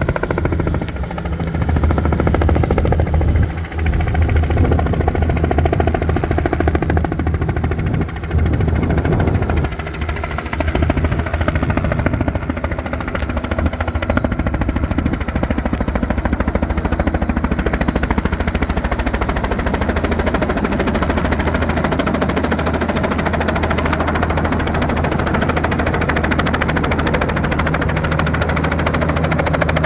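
Robinson R66 turbine helicopter flying an approach to land: the rapid, even beat of its main rotor blades over a steady low drone.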